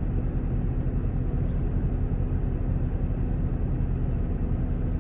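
Vehicle engine idling: a steady low drone with a constant pitch.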